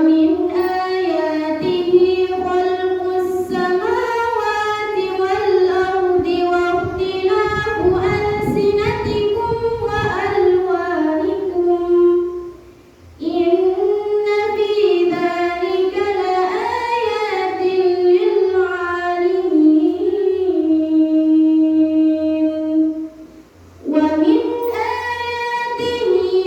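Quran recitation: a single female voice chants verses in long, ornamented melodic phrases with held notes, pausing briefly for breath twice.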